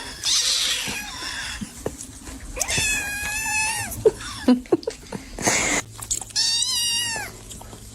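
A domestic cat meowing: two long, drawn-out meows, one about three seconds in and another near seven seconds, each rising, holding and then falling in pitch.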